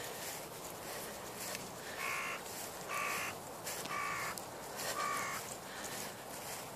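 A bird calling four times, short harsh calls about a second apart.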